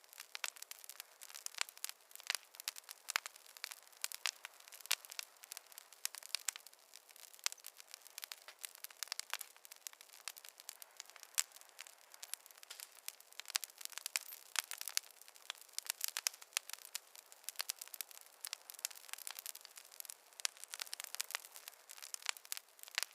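Fireplace fire crackling: a constant stream of irregular sharp pops and snaps over a soft hiss, with no low rumble.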